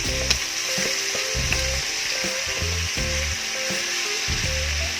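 Marinated chicken wings sizzling as they fry in hot oil and butter in a pan: a steady frying hiss, with one sharp click about a third of a second in.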